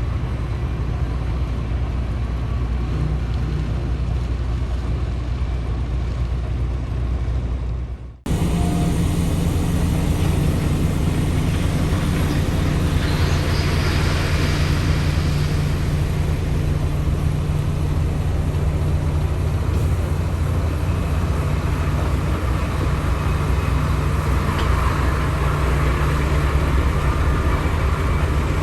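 Heavy diesel engine of a mining dump truck running with a steady low drone. The sound drops out for a moment about eight seconds in, then a similar engine drone carries on.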